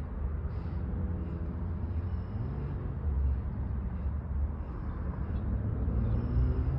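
Airliner cabin noise in flight: a steady deep rumble of engines and airflow with a faint hum.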